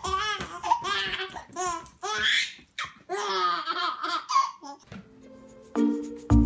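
A baby laughing hard in a string of short, bubbling bursts. Music starts about five seconds in, after the laughter stops.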